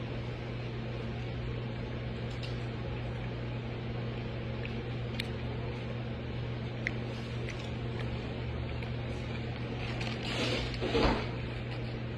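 Steady mechanical hum of a restaurant's dining room, with a few small clicks and a brief louder noise about ten to eleven seconds in.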